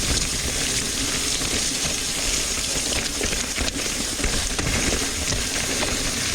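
Mountain bike rolling over a wet, muddy trail: a steady hiss of tyres through water and wet dirt, with a few sharp clicks and knocks from the bike.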